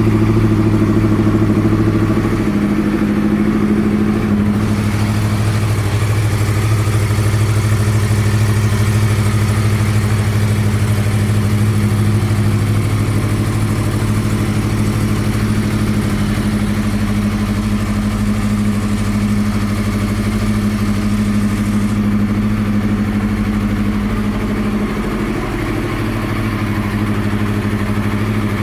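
2009 Yamaha YZF-R1's crossplane inline-four engine idling through a Yoshimura twin-pipe exhaust. It holds a steady, even note, with small shifts in pitch a few seconds in and a brief dip near the end.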